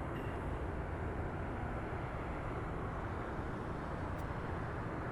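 Steady low rumble of jet airliner engines at an airport, even and unbroken.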